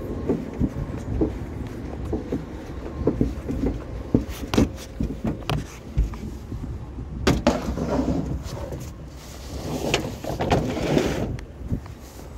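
Knocks, bumps and scraping as a small table and other curbside items are handled and loaded, with a couple of sharper bangs about four and a half and seven seconds in, over the steady low rumble of an idling vehicle.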